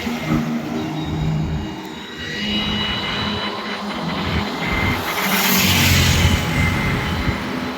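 Heavy vehicles passing on a highway, their engines running, with one passing close about five to six seconds in, when the engine and tyre noise swells loudest.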